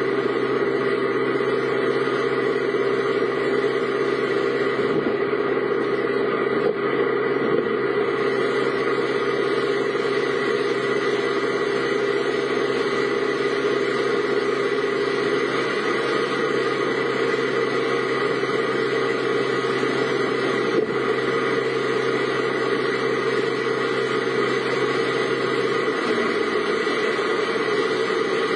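A vehicle engine running at a steady idle, a constant hum that does not change in pitch.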